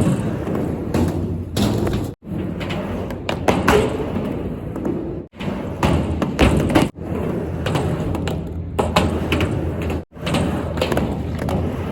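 Skateboarding on a mini ramp: skateboard wheels rolling on the ramp, with repeated thumps and slams of the board on the ramp. The sound cuts out abruptly for an instant several times, between short run-throughs.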